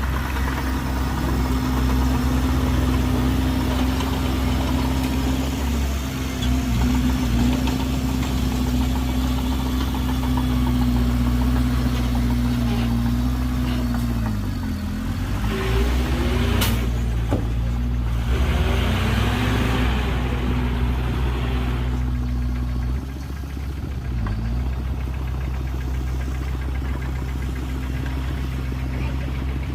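Heavy diesel earthmoving engine running steadily. Its speed dips sharply and recovers about halfway through, and dips briefly again later. Just after the first dip there is a single sharp click, then a few seconds of rushing noise.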